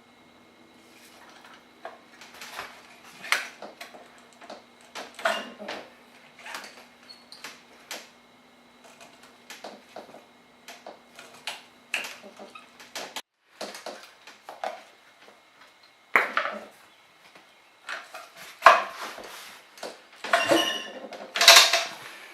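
Metal parts and tools being handled in repair work: irregular clinks, clicks and rattles, with a few louder knocks near the end.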